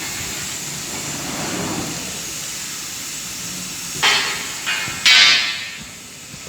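Natural-gas burner of a rotary kiln being lit: a steady hiss, then three sudden rushing bursts about four, four and a half and five seconds in. The last burst is the loudest and dies away over about a second.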